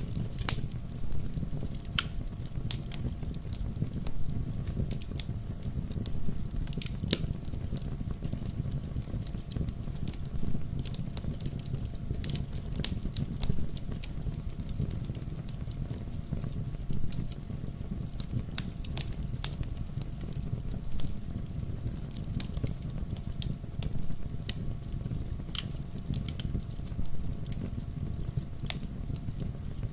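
Wood fire crackling in a fireplace: a steady low rumble of flame under irregular sharp pops and snaps that come every second or so.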